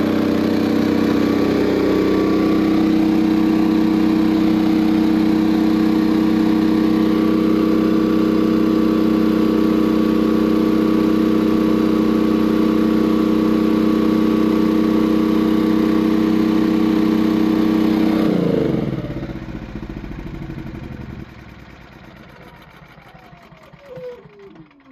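BE Power Equipment 10,500 W inverter generator engine running steadily on natural gas under load, then shutting off about 18 seconds in at the end of a one-minute timed autostart run; the engine spins down with a falling pitch and fades out.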